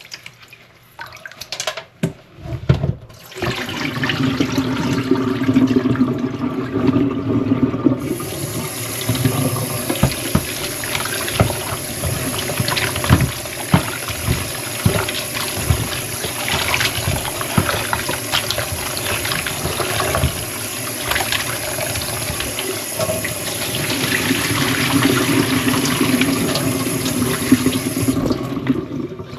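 Kitchen tap running into a sink while cut pig feet are rinsed clean, with scattered knocks and clatter from the pieces and their container. The water comes on a few seconds in and is shut off shortly before the end.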